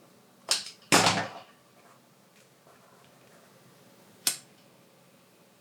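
Three sharp knocks on a work surface: a short one about half a second in, a longer clattering one a moment later, and a single knock near the end, with quiet room tone between.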